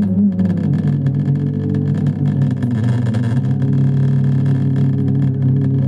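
Home theatre amplifier playing audio through its top speaker, with a loud, steady low hum underneath: the humming fault being traced on this unit.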